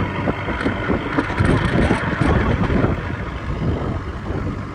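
A small wooden boat under way: a steady low engine hum under the rush of wind on the microphone and water against the hull, the wind and water noise swelling for a couple of seconds in the middle.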